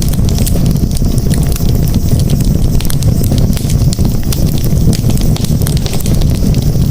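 Wood campfire burning: a steady low rumble of the flames under many quick, sharp crackles and pops from the burning wood.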